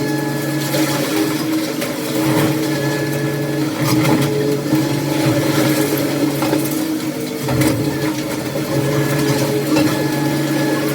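A heavy machine's engine running steadily, with scattered knocks and clatter over it.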